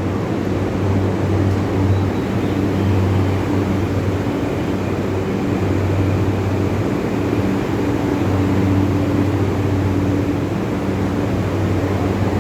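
E235 series electric commuter train at the station, a steady low hum over an even rumble.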